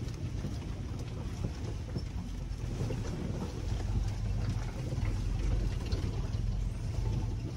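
Land Rover 4x4 driving over a rough unpaved forest track: a steady low engine rumble with scattered knocks and rattles from the bumpy ride, a little louder from about three seconds in.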